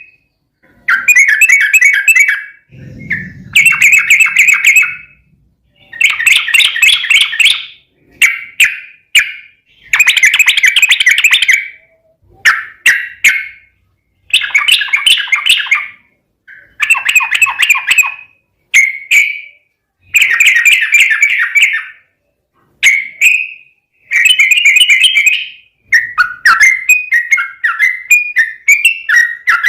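Yellow-vented bulbul (trucukan) singing loud, rapid chattering phrases in bursts a second or two long, separated by short pauses. Near the end it breaks into a quicker run of short falling notes.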